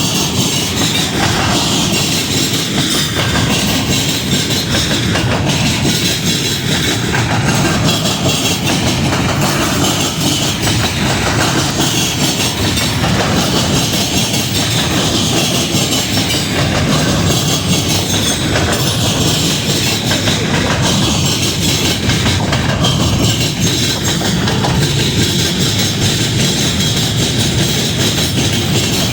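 A train rolling past, its railcar wheels clacking over the rail joints in a steady repeating rhythm.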